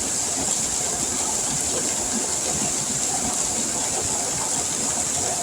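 Heavy rain pouring down, a steady hiss that doesn't let up.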